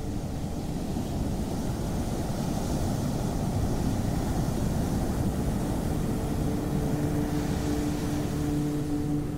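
Ocean surf rumbling low and steady, with soft swells of hiss as waves wash in. A distant engine drone hums under it, fading out after the start and coming back about two-thirds of the way through.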